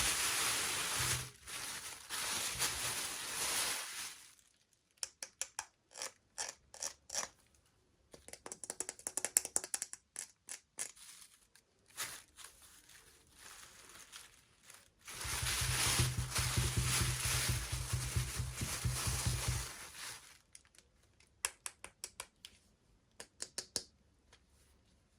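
Toy packaging being opened by hand: two long stretches of rustling or cutting, with bursts of small quick clicks and taps between them.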